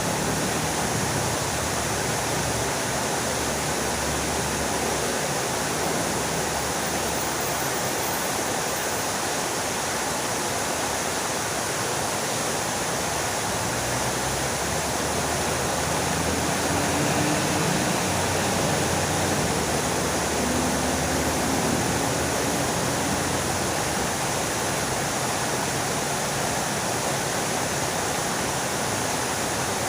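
Fountain water splashing steadily, an even rushing hiss with no breaks.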